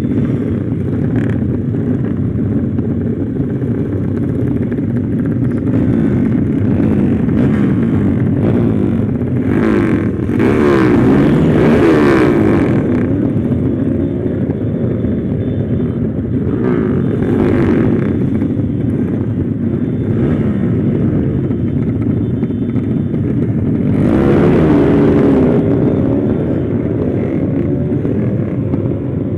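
Motorcycle engine running steadily while riding, its freshly rebuilt engine holding a dense low drone. The pitch wavers, and the sound swells louder twice, about ten seconds in and again near the end.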